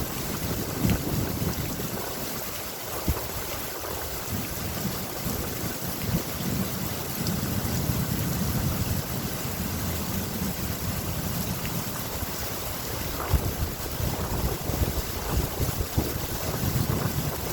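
Steady rain hiss with a low, rolling rumble of thunder underneath that swells and fades.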